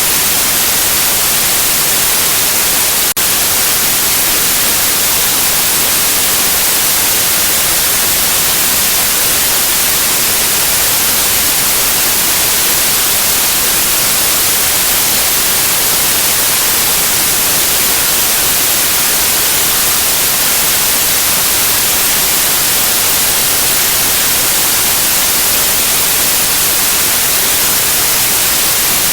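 Steady, loud white noise, a constant hiss weighted toward the highs, played to soothe a baby to sleep. It is interrupted by one brief tick about three seconds in.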